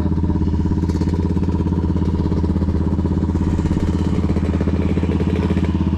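Dirt bike engine idling steadily, with a fast even pulse.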